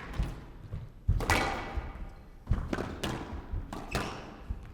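Squash rally: a string of sharp, irregularly spaced hits of the ball off the rackets and the court walls, ringing in the hall.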